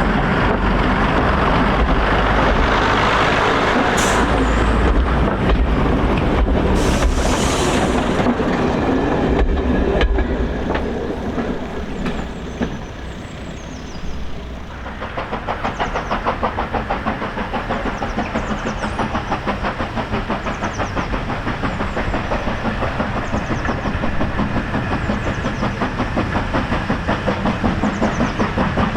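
A train running on a heritage line. It starts with a loud rumbling stretch broken by two short hisses. After about fourteen seconds the level dips, then a steady, quick, even beat takes over.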